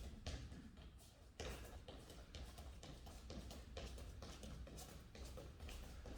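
Faint, irregular taps and shuffles over a low steady hum.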